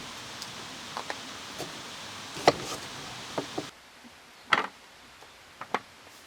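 A handful of sharp knocks and clicks over a steady hiss. About three and a half seconds in, the hiss drops away suddenly and the knocks go on over a much quieter background.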